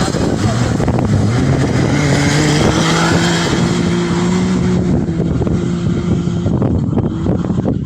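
An off-road rally vehicle's engine running hard: its pitch rises over the first few seconds, holds steady, then fades near the end. Wind noise on the microphone runs throughout.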